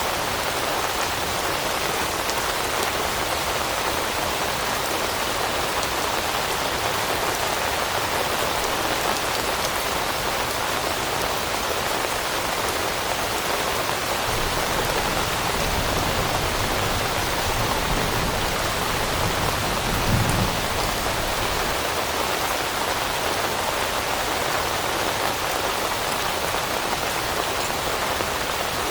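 Steady rain falling on forest foliage, an even patter that does not change. A low rumble swells in beneath it about halfway through and peaks briefly a few seconds later.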